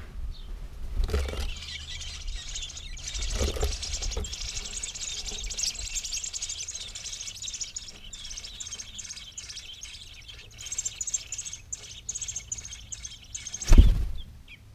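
Small birds chirping in a rapid, continuous series of high notes, with a few low knocks and one loud thump near the end.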